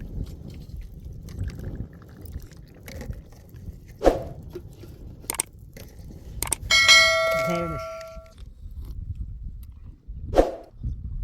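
A few sharp knocks, then a metal object clangs and rings out for about a second and a half before dying away.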